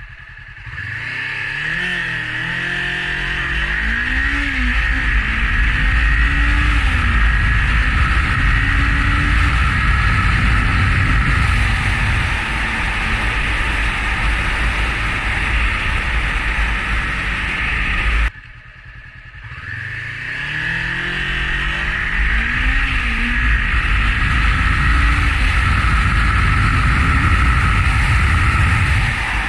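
2017 Honda CBR500R's parallel-twin engine accelerating hard from a standstill on its stock exhaust, the revs climbing and dropping back at each upshift, with heavy wind noise on the microphone as speed builds. Past halfway the sound cuts off suddenly and a second full-throttle run from rest begins.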